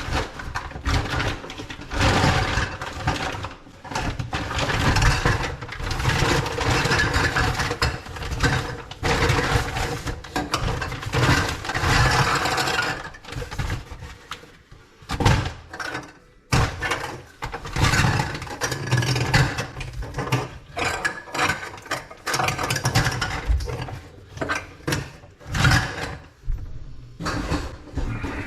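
Irregular clattering and scraping of hands and tools working on a drain pipe, over a faint steady hum.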